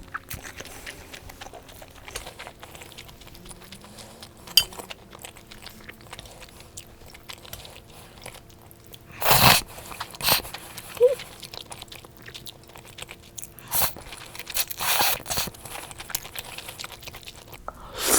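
Close-miked eating: several quiet seconds of faint chewing, then a handful of short crunchy bites with chewing, the loudest about halfway through and again at the end.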